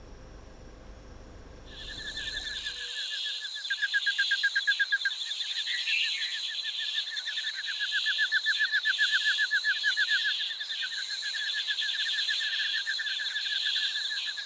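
Loud chorus of rainforest cicadas that starts about two seconds in: a fast, even pulsing with a steady high-pitched drone above it, swelling and easing in waves.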